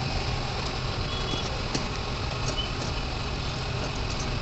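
Steady low motor-vehicle rumble, with a few faint light clicks and taps.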